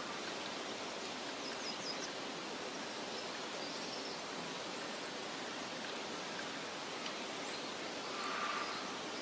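Steady soft hiss of wind-blown outdoor meadow ambience, with faint high bird chirps: a quick run of four about two seconds in, and another brief call near the end.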